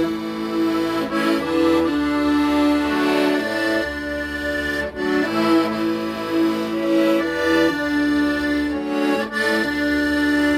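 Accordion playing a slow, sustained melody of held notes over low bass notes.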